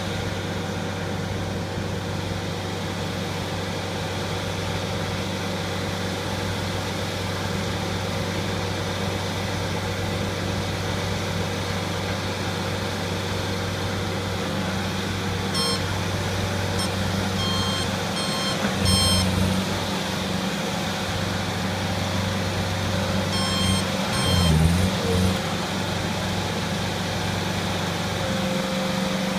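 Bobcat skid-steer loader's engine running steadily, with its backup alarm beeping in two short runs, about halfway through and again near the end, as the machine reverses. The engine note swells briefly around the beeps.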